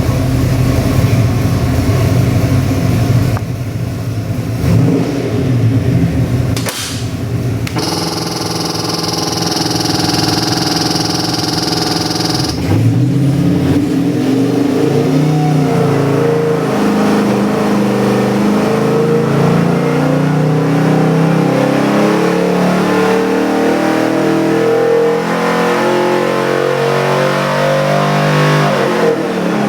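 Carbureted Ford 347 stroker small-block V8 running on an engine dyno just after first start-up. It runs steadily at first, the sound changes abruptly for a few seconds around the middle, then the engine speed climbs slowly and steadily until the sound cuts off at the end.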